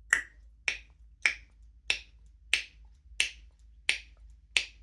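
A steady series of sharp clicks, evenly spaced at about three every two seconds, eight in all.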